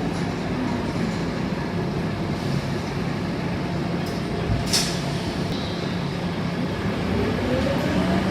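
Scania K230UB Euro IV bus heard from inside the cabin, its diesel engine and road noise running steadily, with one sharp click or rattle about halfway through. Near the end the engine note rises as the bus accelerates.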